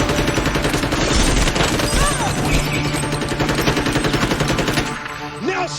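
Sustained rapid automatic gunfire, many shots a second in a dense volley, dropping away about five seconds in.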